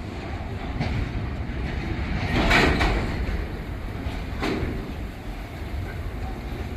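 Freight train wagons rolling past on the rails: a steady low rumble of wheels, with a louder clank about two and a half seconds in and a weaker one about four and a half seconds in.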